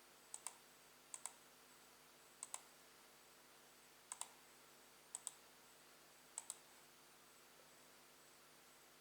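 Six separate clicks of a button on a computer, spaced one to two seconds apart. Each is a quick double tick, press then release.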